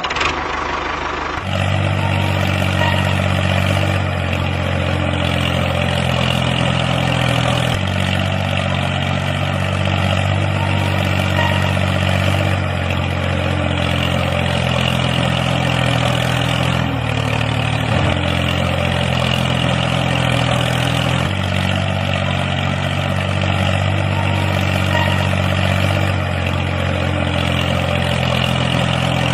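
Engine-like running sound, a steady low drone that shifts slightly in sections every few seconds.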